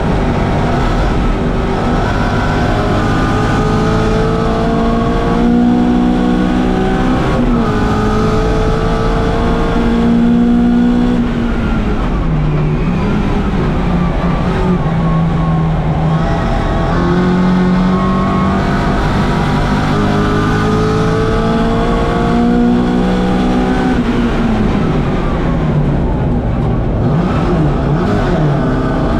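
1964 Mini Cooper S's four-cylinder engine running hard, revs climbing through the gears several times with a sudden drop at each gear change. About 25 seconds in the revs fall away in a few quick dips and rises before climbing again.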